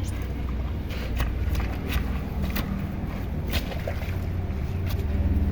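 Hands splashing and slapping in shallow water, in a string of short, irregular splashes over a steady low rumble.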